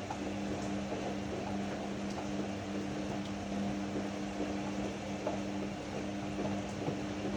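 Ariston AML125 washer-dryer running: a steady motor hum with two constant tones, over a noisy bed with scattered light clicks.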